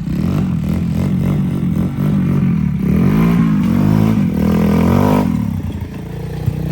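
125cc dirt bike engine running under riding, revving up and down several times in the middle with the pitch climbing and falling.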